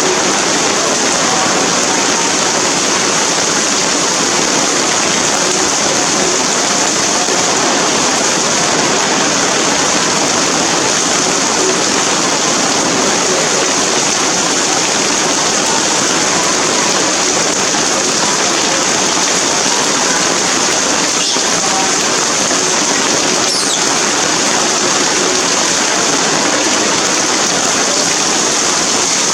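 Steady, loud rain falling, an even hiss that does not let up.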